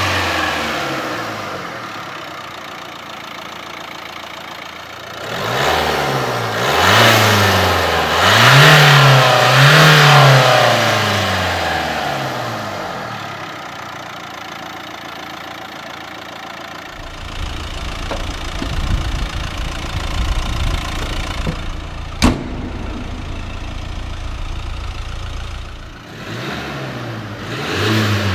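Nissan Juke's 1.5 dCi four-cylinder turbodiesel being revved several times, the engine note rising and falling with each blip and settling back to idle between them. A steady low rumble runs through the middle, with one sharp click partway through, and the engine rises again near the end.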